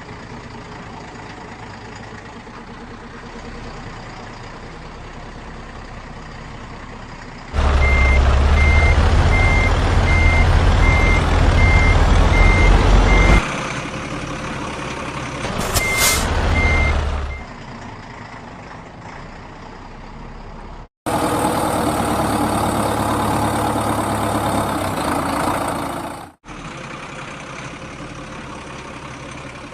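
Vehicle engine running, with a reversing alarm beeping evenly for about six seconds and again briefly a little later. The sound changes abruptly several times, as between separate clips.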